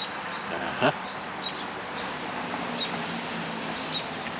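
Steady light rain falling straight down, with short high bird chirps every second or so and one sharp click a little under a second in.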